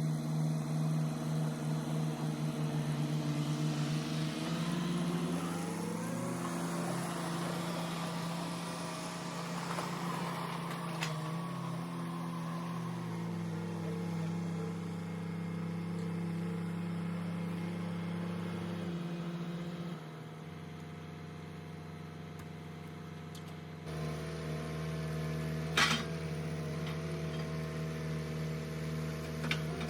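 Tractor engine running, its speed rising and falling several times as it is worked, with two sharp metal clanks near the end.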